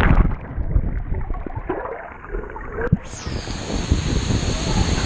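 Rushing, splashing water of a waterfall, muffled for the first three seconds, then a full steady rush.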